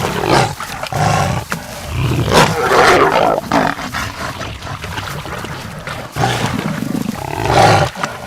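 Two male jaguars fighting, with repeated deep roars and snarls in bursts of a second or so, loudest about two to three seconds in and again near the end.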